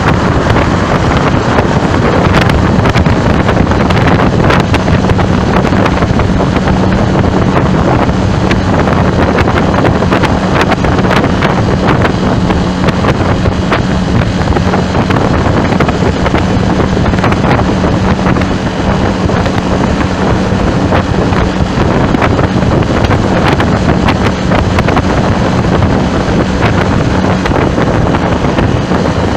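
Loud wind rushing over the microphone of a moving vehicle in traffic, with a steady low hum and frequent crackles from the buffeting.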